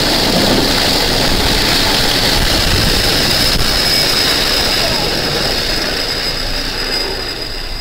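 Helicopter turbine engine with a steady high whine over a broad rushing noise, gradually getting quieter over the last few seconds.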